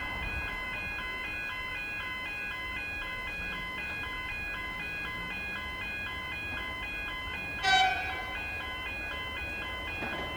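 Railway level-crossing bells ringing in a steady, repeating electronic chime of several high tones. About three-quarters of the way through there is a brief, louder sharp sound.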